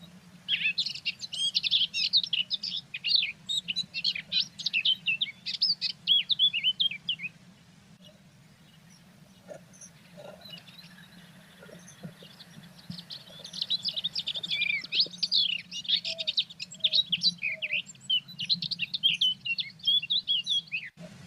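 Blue tits chirping in two long bouts of rapid, high calls, with a quiet gap of several seconds between them, over a faint steady low hum.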